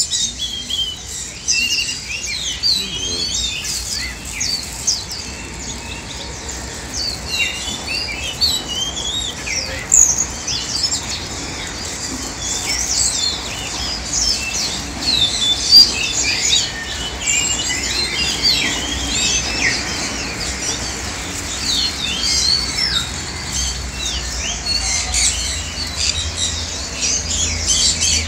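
Many small birds chirping and twittering at once, with short, high calls overlapping densely.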